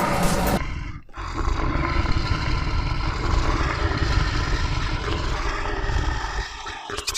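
A large animal roaring as a cartoon sound effect. After a brief break about a second in, one long roar runs for about six seconds.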